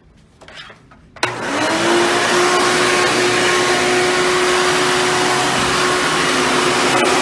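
Hoover Bagless Twin Chamber upright vacuum switched on about a second in with a click, its motor whining up to speed within half a second and then running steadily.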